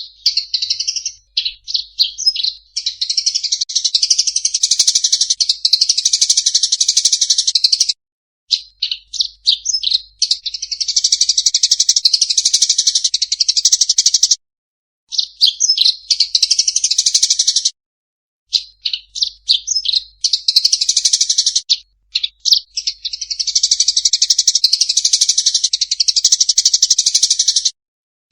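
Songbird masteran recording: a songbird sings high, fast song in which strings of short separate chirps run into long, dense twittering phrases several seconds long, each broken off by a brief pause. Recordings like this are played to caged contest birds so they learn the song.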